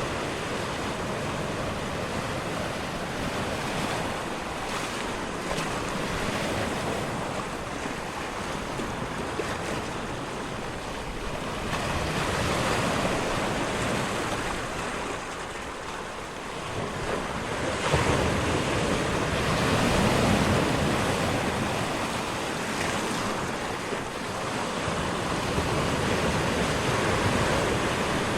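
Ocean surf: waves rolling in and breaking as a continuous wash that swells and eases every several seconds, with a sudden surge about eighteen seconds in.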